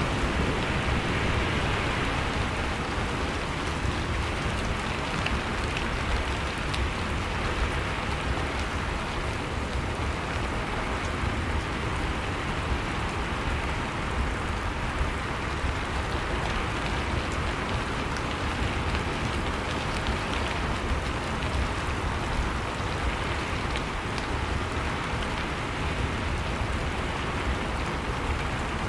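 Steady rain falling, an even wash of drops with no change in strength.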